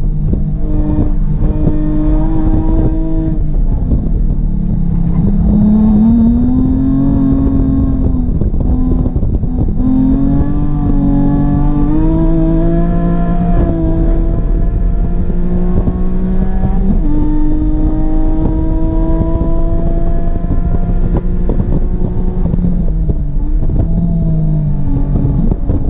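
Race car engine on a flat-out track lap, heard from inside the car: the engine speed climbs under acceleration, drops sharply about two-thirds of the way through as it shifts up, climbs again, then falls off near the end and builds once more.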